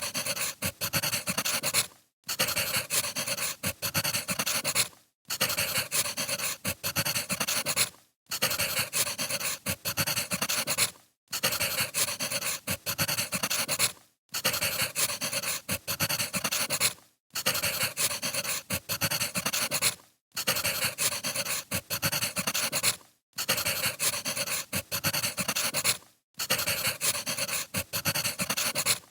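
Crackling wood fire: a steady hiss of pops and snaps, broken every three seconds or so by a brief drop to silence, like a short recording played on a loop.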